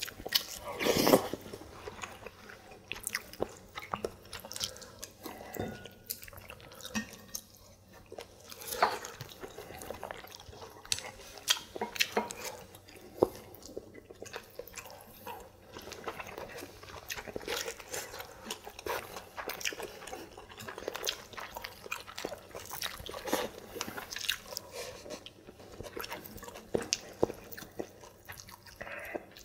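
Close-up eating sounds of two people chewing and biting their way through rice, steamed broccoli and shrimp-ball dumplings: many small irregular clicks and mouth sounds, the loudest about a second in.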